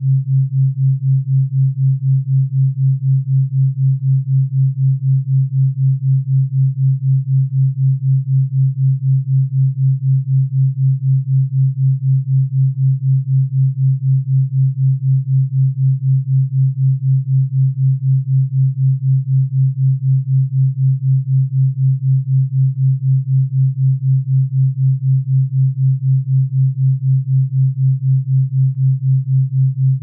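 Brainwave-entrainment tone for napping: a steady low hum that pulses evenly a few times a second.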